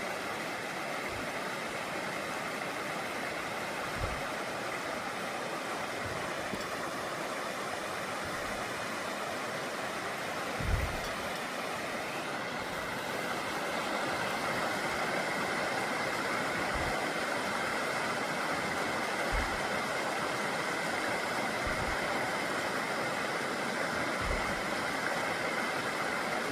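A creek running in a steady, even rush of water, with a few soft low thumps scattered at irregular intervals.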